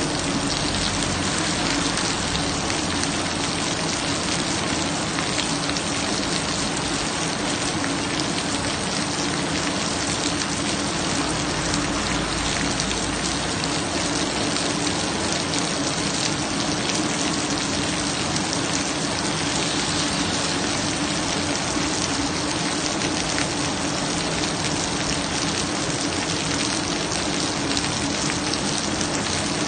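Steady rain falling and pattering on surfaces, an even hiss with no let-up, over a steady low hum.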